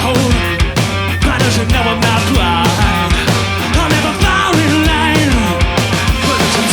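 Rock music with a driving drum beat, bass and electric guitar, played by a band.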